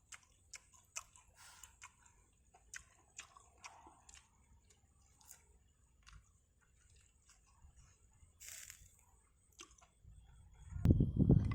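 A person chewing and biting crispy fried chicken, with scattered small crunches and clicks. A much louder noise starts near the end.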